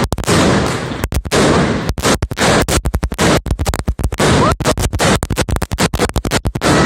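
Nitrate firecracker string (ratelband) going off: a fast, unbroken crackle of bangs, running in dense loud bursts with brief irregular gaps.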